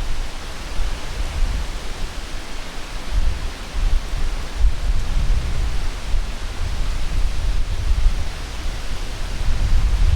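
Gusty wind buffeting the microphone in irregular low rumbling surges, over a steady rushing hiss.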